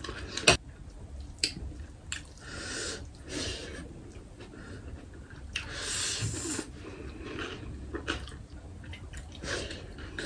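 Close-up eating sounds of rice and vegetables eaten by hand: chewing and mouth smacks, with scattered short clicks.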